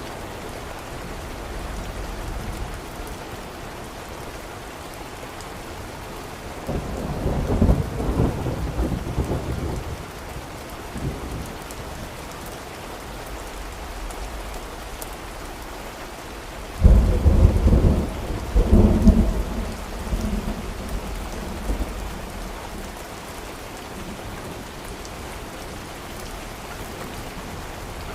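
Steady rain with two rolls of thunder: a rumble about a quarter of the way in, and a louder one that breaks suddenly just past halfway and rolls on for a few seconds.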